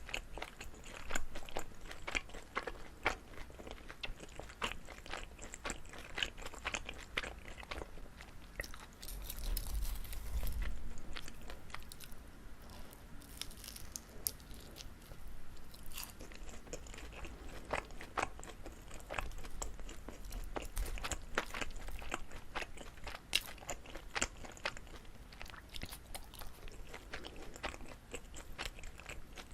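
Close-miked chewing of chewy Korean rice cake (jijilkkutteok) filled with gondre greens: a continuous run of sticky, wet mouth clicks and bites, with a louder, noisier stretch about ten seconds in.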